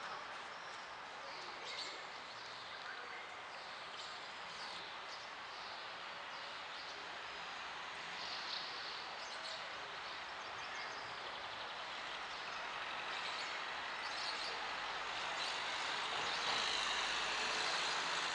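Small birds chirping and calling in short high notes over a steady outdoor background noise, which grows slowly louder, with a low rumble coming in near the end.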